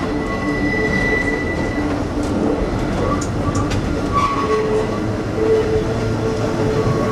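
Hakone Tozan Railway electric car Moha 114 running, heard from inside the cab: a steady rumble of wheels and running gear. Over it come on-and-off high squeals from the wheels on the curving track, and a few sharp clicks about two to four seconds in.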